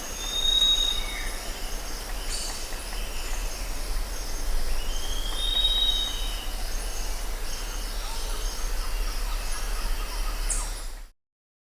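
Birds chirping outdoors, with long, high, drawn-out squealing tones over a steady low hum; the sound cuts off abruptly near the end.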